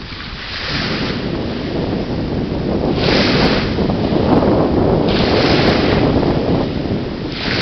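Wind rumbling on the microphone, with a hissing wash of surf that swells up about every two seconds.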